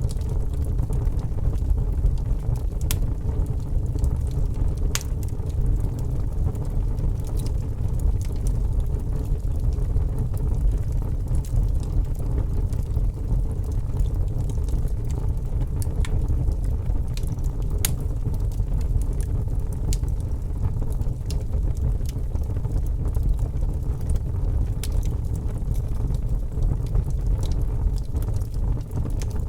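Fire crackling: a steady low rumble of burning with scattered sharp pops and snaps at irregular intervals.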